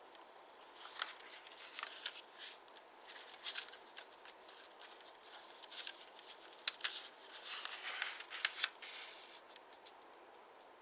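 A square of origami paper being handled, folded and creased by hand: irregular crisp rustles and sharp crackles of paper.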